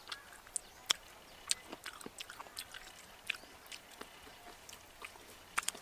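Close-up eating sounds: biting and chewing cooked chicken feet, heard as irregular sharp mouth clicks and smacks, several a second.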